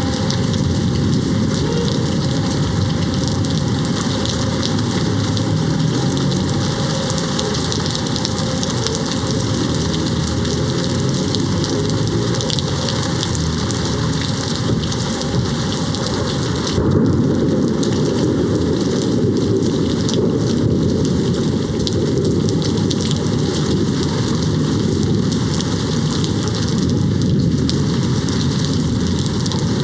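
Steady heavy rain hitting a window. About halfway through, a low thunder rumble swells in and rolls on for about ten seconds.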